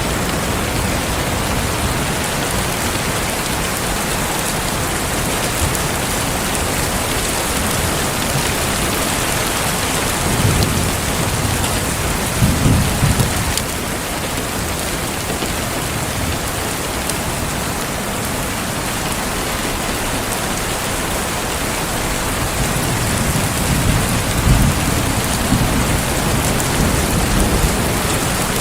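Heavy rain falling steadily, with low rolls of thunder about a third of the way in and again near the end.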